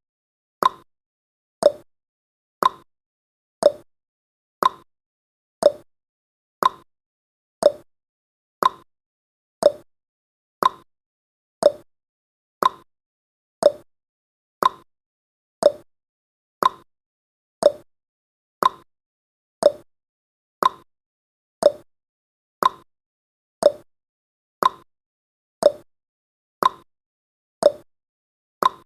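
Clock ticking sound effect for a countdown timer: one sharp tick each second, alternating a higher tick with a lower tock.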